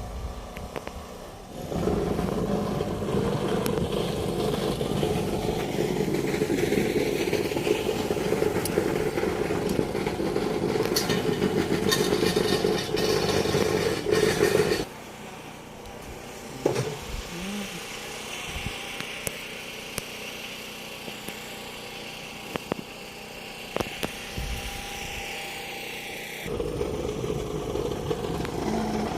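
A motor engine running steadily, cutting abruptly to a quieter stretch about halfway through and coming back loud near the end.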